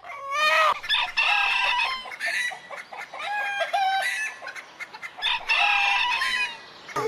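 Rooster crowing: several long pitched crows one after another, with short gaps between them.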